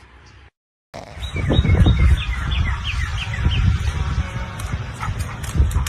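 A bird chirping a quick run of about ten short falling notes, starting about a second in, over a loud low rumble.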